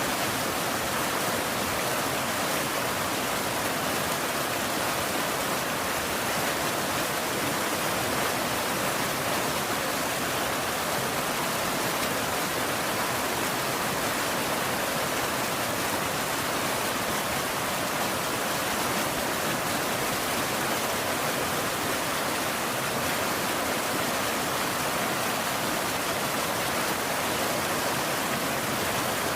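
Steady rain falling, an even hiss with no thunder or changes.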